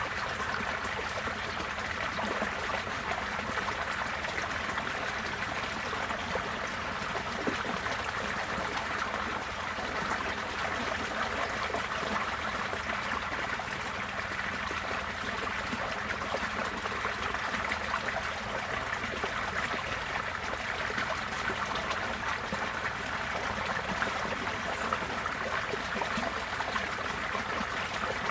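Receding floodwater flowing steadily, a continuous even sound of running and trickling water with no breaks.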